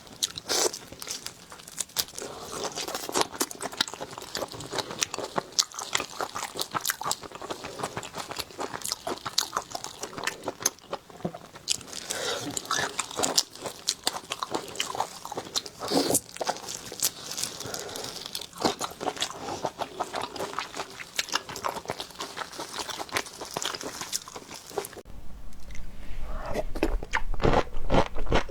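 Close-miked eating of seafood: a dense, irregular run of crunching bites and wet chewing clicks. A low hum comes in near the end.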